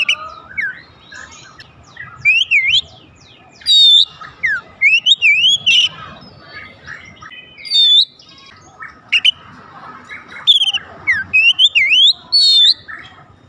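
Oriental magpie-robin singing a loud, varied song of sweeping rising and falling whistles and quick trills, phrase after phrase with short pauses between.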